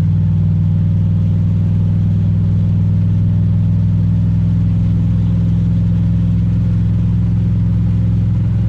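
Carbureted small-block Chevy V8 with Vortec heads and an LT4 hot cam idling steadily, still warming up after a cold start without a choke.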